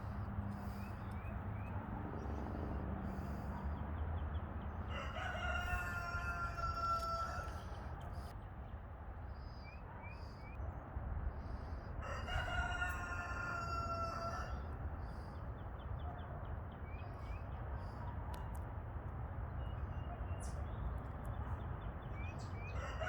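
A rooster crows twice, about seven seconds apart, each crow lasting about two and a half seconds. A steady low rumble runs underneath, with a few faint short chirps between the crows.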